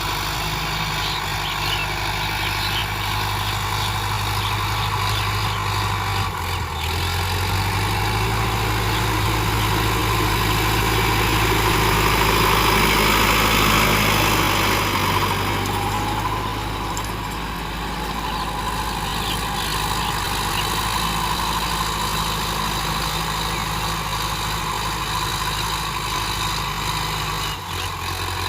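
Tractor engine running steadily, with a shift in its note about six seconds in; it grows louder through the middle and eases off again past the halfway point.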